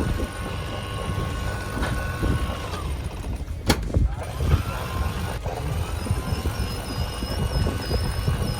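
Mainsail being hoisted on a winch: a motor whine rises in, runs steadily, stops about three seconds in, and starts again about two seconds later, with a sharp click between the two runs. A low rumble of wind and motion runs under it.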